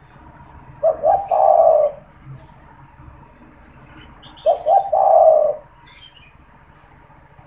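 Spotted dove (tekukur) cooing twice, each phrase a few quick short notes and then a longer held coo, about four seconds apart. Faint chirps of other small birds come in between.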